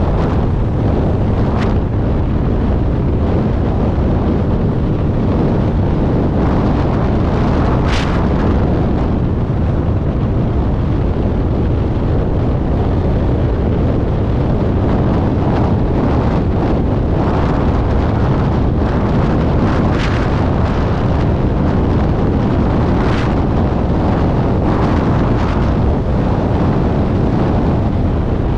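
Heavy wind buffeting the microphone over the low rumble of a car running at speed, steady throughout, with a few brief sharper gusts or noises.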